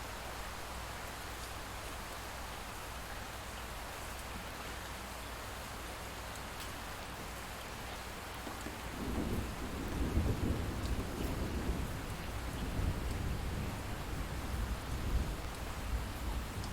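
Steady light rain falling, with a low rumble of distant thunder that comes in about halfway through and goes on, rising and falling, to the end.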